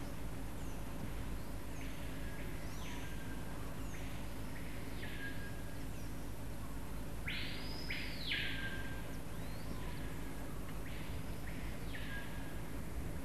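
A bird calling repeatedly, a couple of seconds apart, each call a note that rises and falls back; the loudest call comes about halfway through. A steady low hum lies under it.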